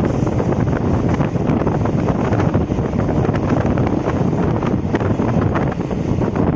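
Electric multiple-unit (EMU) local train running at speed: a steady rumble of wheels on the track with wind rushing over the microphone and scattered light clicks and rattles.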